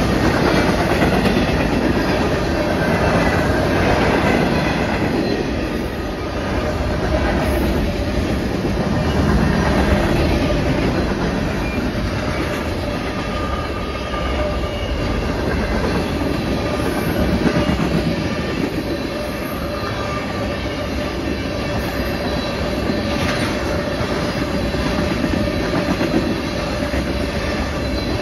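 Freight cars of a CN freight train rolling past at speed: steady rolling noise of steel wheels on the rails, swelling and easing gently as the cars go by.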